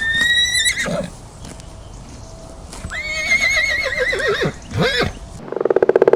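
A horse whinnying twice: high, quavering calls that waver in pitch and drop away at the end, the second one longer. Near the end, after a cut, a different rapidly pulsing call begins.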